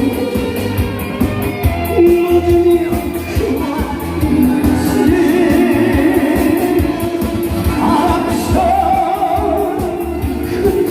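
A man singing a Korean song through a sound system over instrumental accompaniment with a steady beat, holding long notes.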